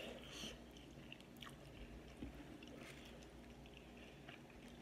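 Faint chewing and mouth sounds of a person eating a fried chicken wing, with a few soft clicks. A short breath blown out near the start.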